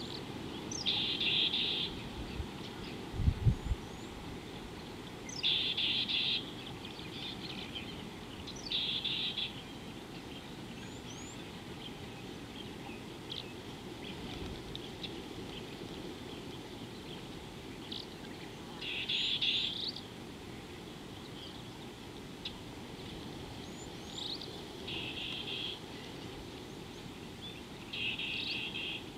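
Birds calling: a high trill about a second long, repeated six times, with faint short chirps between, over a steady outdoor hiss. A couple of low thumps about three seconds in.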